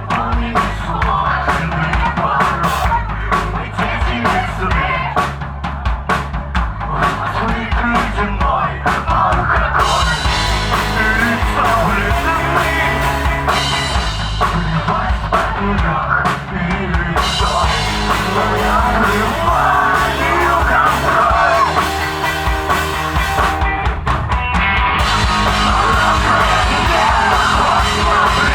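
Alternative rock band playing live: a drum kit with kick drum keeps a driving beat under bass and other instruments, and the sound fills out with brighter, fuller playing about ten seconds in.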